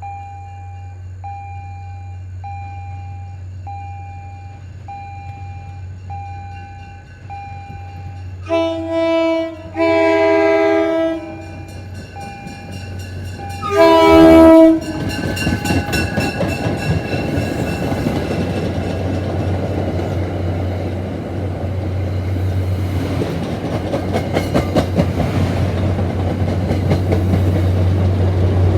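A bell dings steadily, about once every 0.7 s. Then a train's multi-chime air horn sounds three blasts, the second the longest and the third the loudest. The train then passes, its wheels clattering over the rail joints and growing louder.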